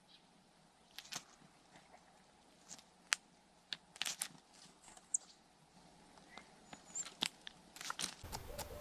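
Woodpecker pecking at wood: faint, irregular taps scattered a few at a time, with a couple of brief high chips in between.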